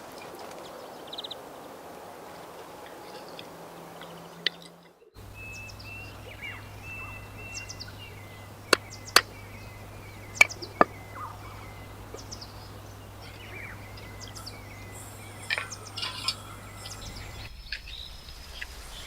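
Outdoor ambience with small birds chirping now and then. Four sharp clicks or knocks come in the middle, and a low steady hum runs through most of it.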